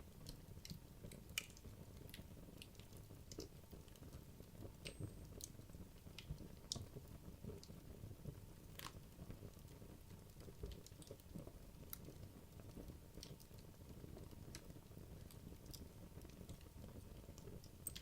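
Wood logs burning in a fireplace: faint, irregular crackles and small pops over a low, steady rustle of the fire.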